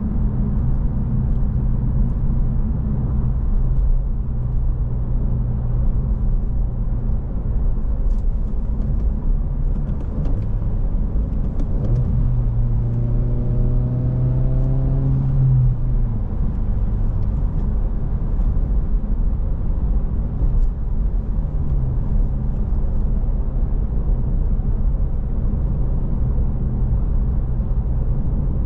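Stock 2025 Honda Civic Si's 1.5-litre turbocharged four-cylinder engine and road noise as the car is driven, a steady low drone. About twelve seconds in, the engine note climbs steadily for a few seconds as the car accelerates, then drops back.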